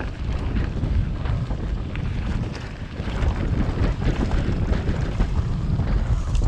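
Wind buffeting the microphone of a camera carried on a moving mountain bike, a steady low rumble, with frequent small knocks and rattles from riding over rough trail.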